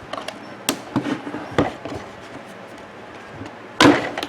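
Handling noise from a coffee maker's plastic parts and tubing: a few sharp clicks and knocks in the first second and a half, then a louder short clatter near the end, as the tubing is worked off the heating element.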